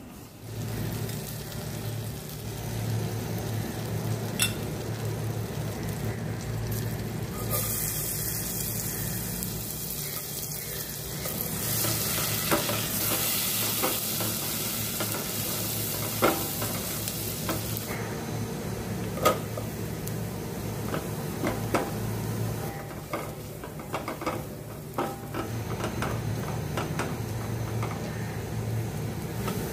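Oil sizzling in a stainless steel pan as chopped garlic and then diced onion fry, stirred with a silicone spatula that clicks and scrapes against the pan now and then. The sizzle is strongest through the middle, and a steady low hum runs underneath.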